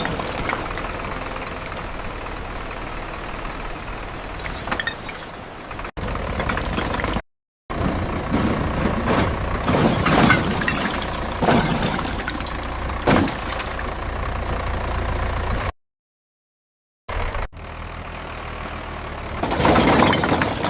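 Tractor engine running at a steady low speed, with a few louder sudden noises over it. The sound cuts out completely twice for a moment.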